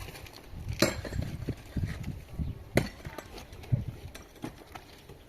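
A few sharp, irregular knocks and clinks, the loudest about a second in and again near three and four seconds in, over a low rumble.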